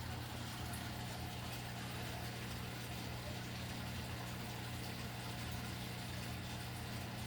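Steady low machine hum under an even hiss, with no change in level or pitch.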